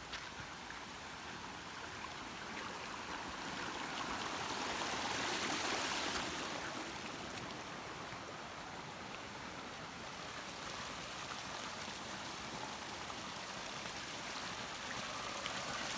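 Steady rush of running water, swelling to its loudest about five or six seconds in and then settling back.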